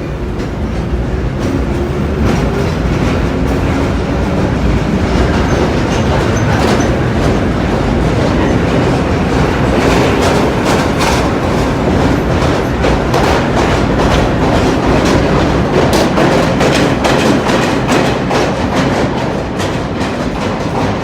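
Vintage R1-R9 subway train running at speed, its wheels clacking over rail joints over a steady loud rumble; the clacks come thicker and faster from about halfway through.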